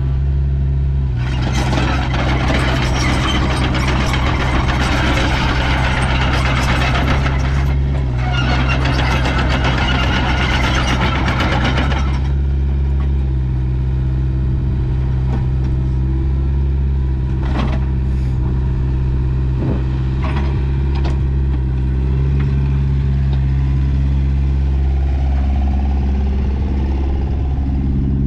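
Takeuchi TB150C midi excavator's diesel engine running steadily. From about a second in until about twelve seconds a loud rushing noise rides over it, broken briefly near eight seconds, and a few sharp metallic knocks come later.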